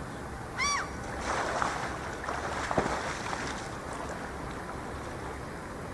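A gull gives one short call about half a second in, then water splashes and sloshes for a couple of seconds over a steady background rush.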